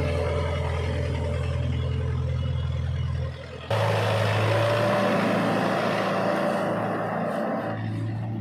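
Diesel engine of heavy machinery running steadily. About three and a half seconds in the sound dips briefly, then comes back abruptly with a different, higher engine note that holds steady.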